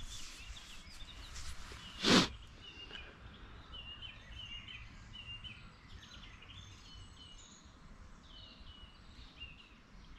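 Small birds chirping in short, repeated calls over a low background rumble, with one brief loud knock about two seconds in.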